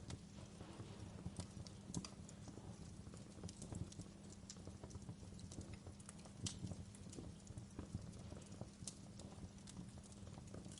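Wood fire in a fireplace crackling and popping: irregular sharp snaps over a low, steady rumble of the flames, with a few louder pops.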